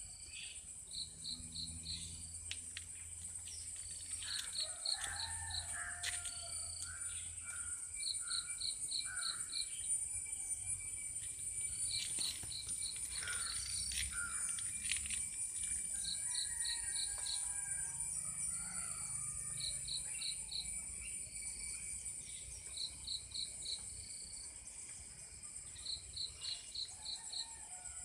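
Steady high-pitched insect drone, like crickets, with a short run of four or five high chirps repeating every few seconds, and scattered bird calls and chirps over it.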